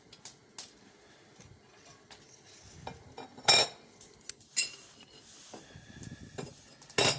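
Metal clanks and clinks from the barbecue stove's metal fittings being handled, with two loud strikes about three and a half seconds in and near the end, and small ticks between.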